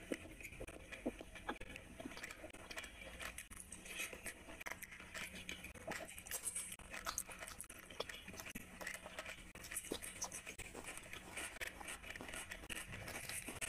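Close-miked chewing of luchi with curry: many short wet mouth clicks and smacks, irregular and continuous.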